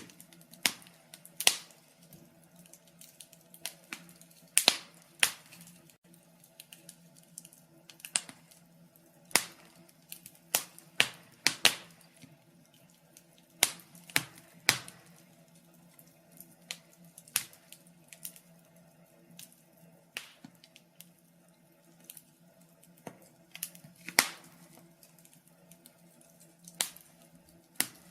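Fire crackling: irregular sharp pops and snaps, some louder than others, coming in clusters with short gaps, over a faint steady low hum.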